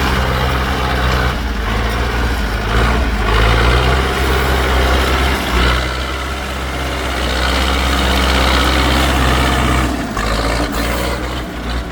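Tractor engine running steadily and loudly, easing off about ten seconds in.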